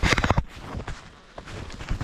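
Snowshoe footsteps in snow: a loud crunching step in the first half second, then quieter steps.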